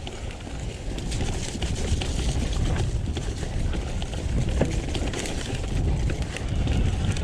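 Electric mountain bike rolling down a muddy, rutted trail: a steady low rumble of tyres and wind on the mounted camera's microphone, with a constant patter of small knocks and rattles from the bike over the rough ground.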